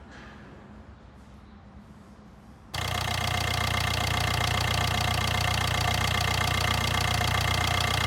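Opel/Fiat 1.3 CDTI four-cylinder turbodiesel idling steadily, coming in abruptly about three seconds in; the noise is put down to the timing chain.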